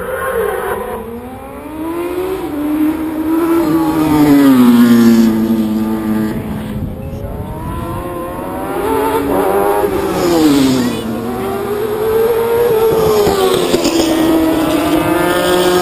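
Racing motorcycle engines passing at full race pace, their pitch climbing and dropping again and again as the riders accelerate, change gear and brake for corners. The loudest pass comes about four to six seconds in, and a second surge of engines follows around ten seconds in.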